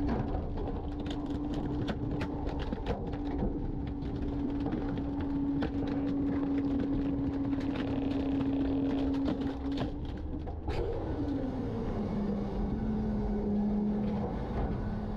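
Garbage truck packing garbage: a steady mechanical hum under many sharp cracks and clatters of trash being compacted. About eleven seconds in, the hum slides down to a lower pitch and holds there.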